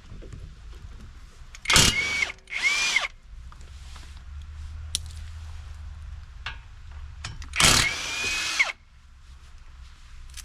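Impact wrench running in three bursts while taking off the brake caliper bracket bolts: two short ones about two seconds in, then a longer one of about a second near the end.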